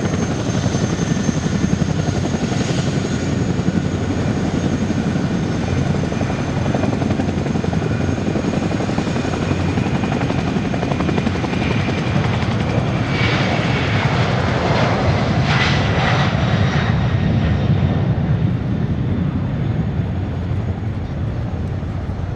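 Aircraft turbine engines running steadily: a loud rushing noise with a thin high whine on top. Part of the whine drops a little in pitch about two-thirds of the way through, and the sound eases slightly near the end.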